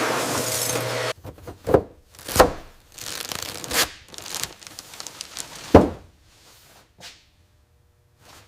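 A steady machine hiss with a low hum cuts off suddenly about a second in. It is followed by a handful of separate knocks and tearing, crinkling handling sounds, the loudest knock a little before the six-second mark, then it goes quiet near the end.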